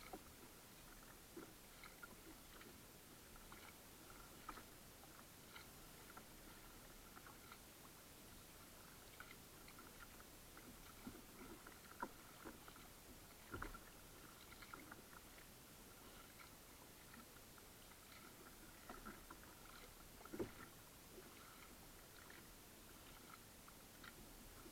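Faint sounds of kayak paddling: light splashes and drips with scattered small clicks, and a few louder knocks spread through.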